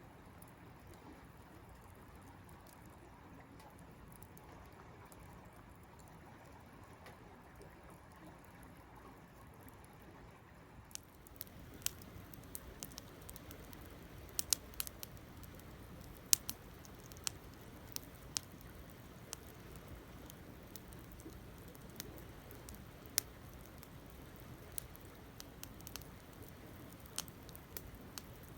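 Campfire burning: a steady low rush of flame, with sharp, irregular crackles and pops that begin about eleven seconds in and continue.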